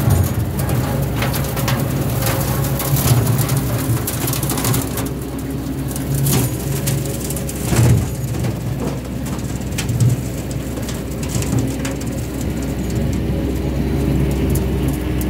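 Small tractor engine running steadily, with scattered sharp clicks and knocks over it.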